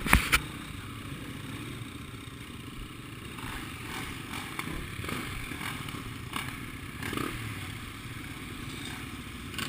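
Motocross motorcycle engines running steadily, with two sharp clicks right at the start.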